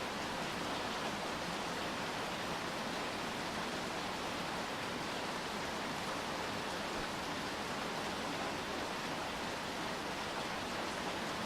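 Steady rain falling, an even hiss without distinct drops or other events.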